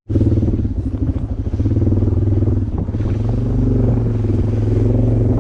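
Motorcycle engine running steadily at an even cruising pace, loud and constant with only slight changes in pitch.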